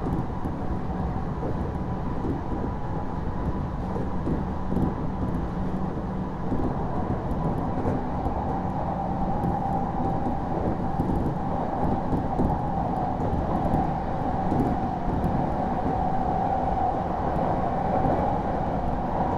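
Odakyu 1000 series electric train running steadily, heard from inside a motor car: a continuous rumble of wheels on rail with a steady hum, growing slightly louder near the end.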